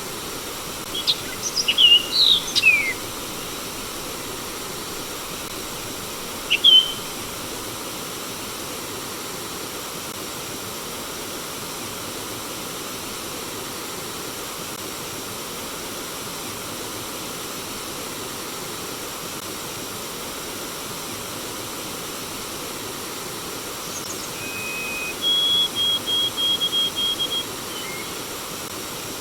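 Steady rush of flowing water with songbird calls over it: a cluster of quick chirps in the first few seconds, a single chirp about six seconds in, and a quick run of short, even notes near the end.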